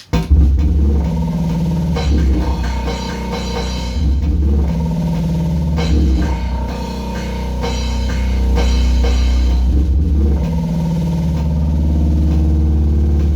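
Loud cybergrind/noise music starting abruptly, with drums and a heavy distorted low end.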